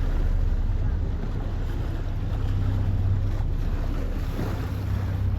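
Motorboat engine running under way with a steady low drone, with wind buffeting the microphone.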